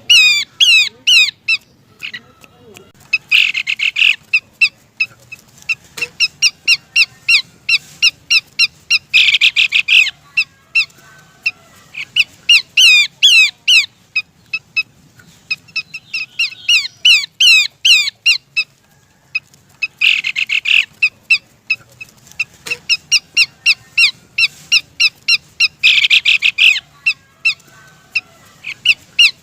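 Horsfield's babbler (pelanduk semak) calling in fast series of sharp, downward-slurred whistled notes, with four denser, louder bursts of rapid notes. It is a lure call, the call of a female calling a male.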